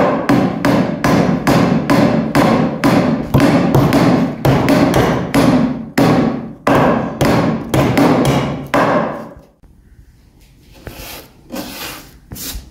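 Hammer driving nails into wooden boards: a quick, steady run of sharp strikes, about two to three a second, that stops about nine seconds in.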